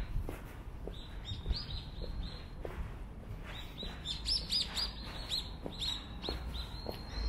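Birds chirping: many short, high calls in quick succession, coming thicker in the second half.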